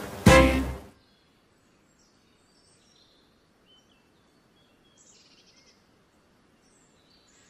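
A song ends on a final held chord about a second in. After it, quiet outdoor background with a few faint, short bird chirps.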